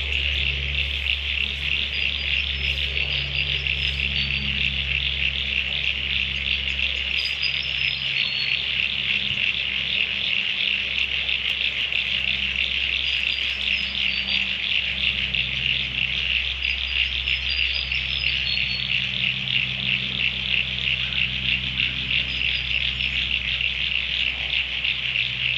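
Night chorus of frogs and insects: a dense, steady, fast-pulsing trill, with short high chirps scattered over it and a low steady hum underneath.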